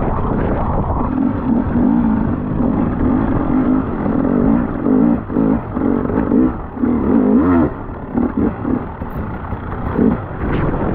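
Enduro motorcycle engine running under the rider, its note rising and falling as the throttle is worked, then breaking up near the end.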